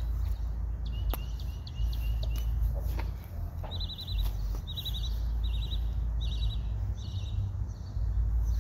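A bird calling over and over in short, high trilled chirps, about one every three-quarters of a second through the middle of the stretch, over a steady low rumble of wind on the microphone.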